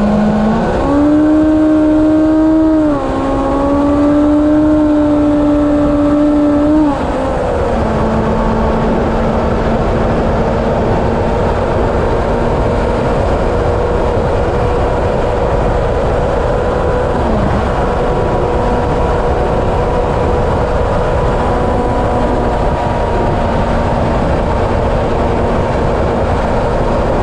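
Honda CB750's air-cooled inline-four engine running at highway speed under heavy wind noise. Its note steps up about a second in, drops slightly near three seconds and again near seven seconds, then holds steady.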